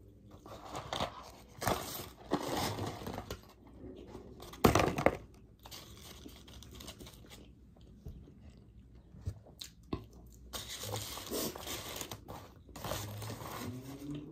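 Close-miked chewing of French fries and a fried chicken sandwich: irregular crunching and mouth noises, with one louder burst about five seconds in.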